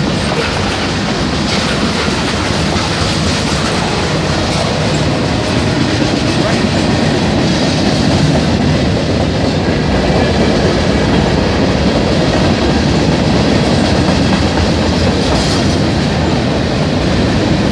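Train rolling steadily past at close range, its wheels running loudly over the rails.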